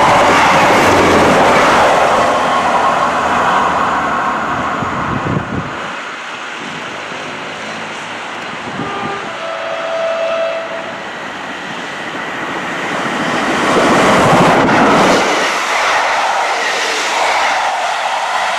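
A train running past on the line. Its noise is loudest at the start, eases off about six seconds in, and swells again around fourteen seconds.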